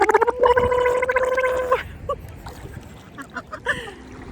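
A woman's voice holds one long, steady note without words and stops about two seconds in. After that it is quieter, with a few soft short sounds.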